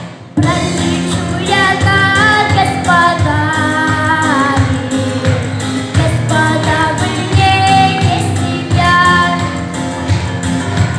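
A female vocalist sings a song with vibrato over instrumental backing that has a steady beat.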